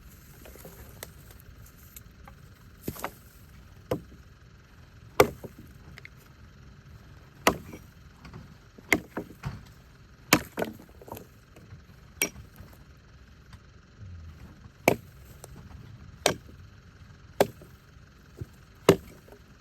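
Wood being chopped: a series of sharp chopping blows, irregularly spaced about one to two seconds apart.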